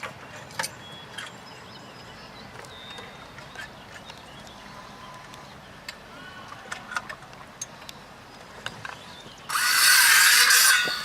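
Scattered light knocks and clicks of fireworks mortar tubes and racks being handled, then a loud rushing noise about a second and a half long near the end.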